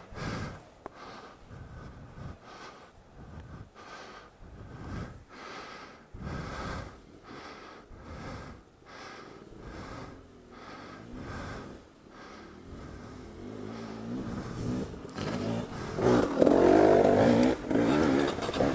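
Suzuki DR-Z400 single-cylinder four-stroke engine running on a muddy trail, with rhythmic heavy breathing about once a second. From about two-thirds of the way in, the engine is revved hard and grows much louder.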